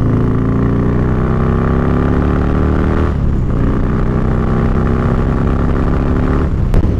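Harley-Davidson Dyna's V-twin engine accelerating hard through the gears: the revs climb for about three seconds, dip briefly at a gear change, climb again, then drop off near the end.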